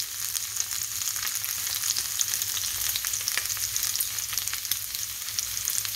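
Pork tocino frying in hot oil in a skillet: a steady sizzle with many small crackling pops.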